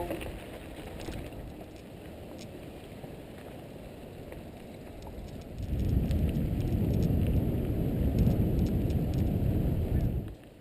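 Mountain bike rolling on a dirt trail: a low, noisy rumble of tyres with scattered small clicks and rattles. A sharp knock comes at the very start, the rumble grows much louder about halfway through, and it drops off suddenly near the end.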